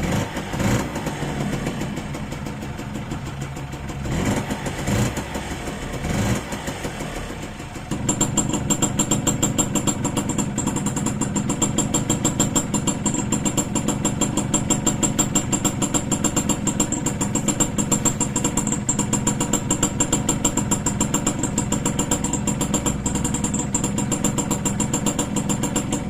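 Small motorcycle engine running at idle, freshly rebuilt and just started; uneven for the first few seconds, then about 8 seconds in it settles into a steady, evenly pulsing idle with a faint high whine.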